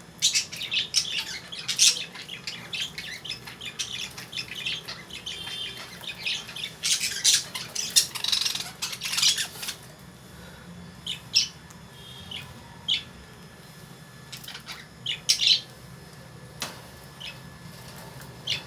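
Caged lovebirds squawking and chirping in short, sharp, high calls, thick and overlapping for about the first half, then thinning to scattered single calls.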